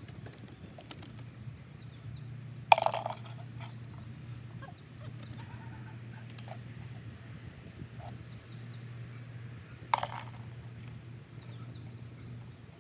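Backyard ambience: small birds chirping faintly over a steady low hum, with two short loud calls, one about three seconds in and one about ten seconds in.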